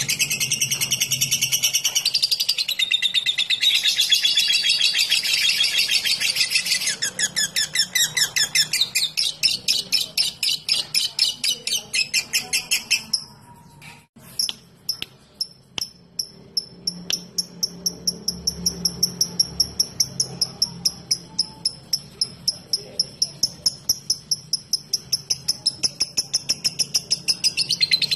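Lovebird calling: a long, dense chattering trill (the 'ngekek') for about the first seven seconds, turning into rapid separate chips, then after a short pause about halfway a long run of quick, even high ticks, about four a second (the 'ngetik').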